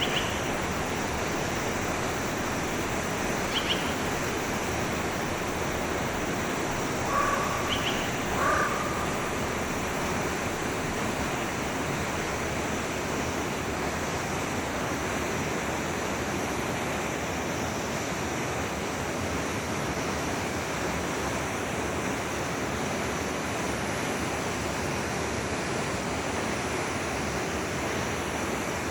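Forest stream flowing, a steady rush of water. A few short bird calls sound in the first third.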